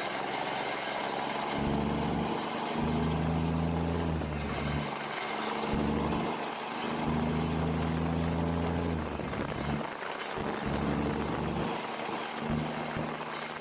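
Straight-piped semi-truck engine running under load in three pulls of about three seconds each, with short drops between them. Each pull carries a high turbo whistle that rises, holds and falls away as the pull ends.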